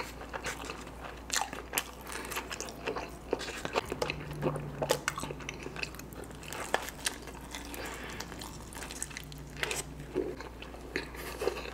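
A man biting and chewing a slice of pepperoni pizza: irregular wet clicks and crunches of the mouth and crust, with a faint low hum twice along the way.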